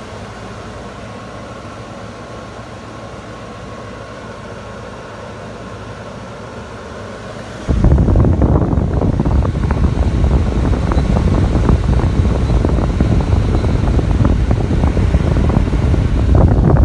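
Window air conditioner running: a steady hum with faint whining tones, then about eight seconds in it suddenly gets much louder as a strong rushing airflow noise.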